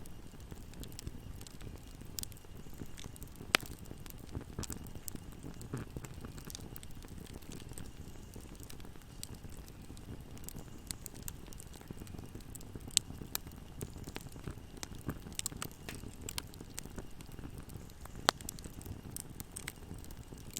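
Fire burning in a fireplace: a steady low rumble of flame with irregular crackles and sharp pops, three of them much louder than the rest.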